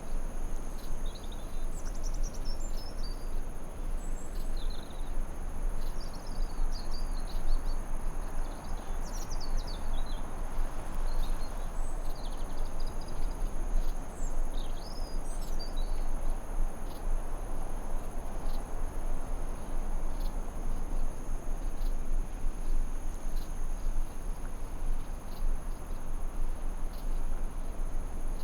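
Forest ambience: a steady hiss under a continuous high drone of crickets, with birds chirping in quick, twittering phrases during the first half that then fall away.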